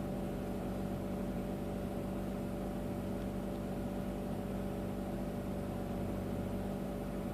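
Mazda RX-8's two-rotor Renesis rotary engine idling steadily, heard from inside the car, with a miss that comes through as a repeated thud: the sign of the engine's low compression.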